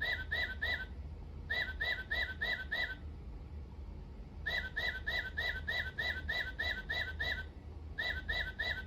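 Singing bird clock playing its recorded tufted titmouse song: phrases of quickly repeated whistled 'peter' notes, about five a second, with short pauses between phrases. A steady low hum sits underneath.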